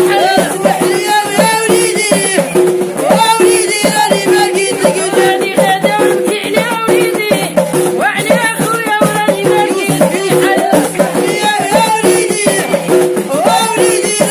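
Moroccan folk music: singing over fast, dense hand percussion with rattling shakers.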